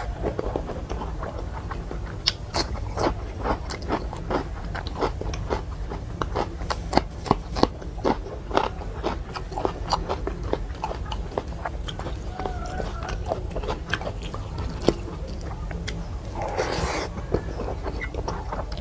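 Close-miked wet chewing and lip-smacking of a person eating rice and vegetable curries, a dense run of irregular sharp mouth clicks. There is one brief, fuller mouth sound near the end.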